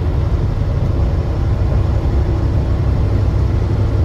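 Steady low rumble of a truck's engine and road noise heard inside the cab while driving.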